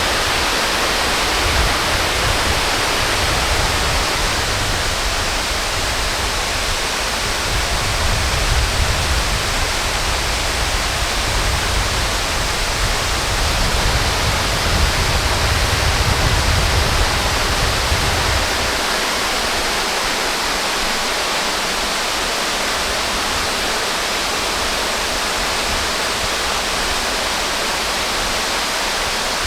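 Steady rushing of falling water from a waterfall. A low rumble under it drops away about two-thirds of the way through.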